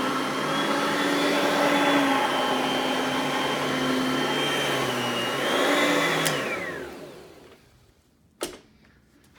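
Oreck XL Platinum upright vacuum running on carpet, its motor's high whine shifting slightly as it is pushed. About six seconds in it is switched off and the whine falls away as the motor winds down. A sharp click follows a couple of seconds later.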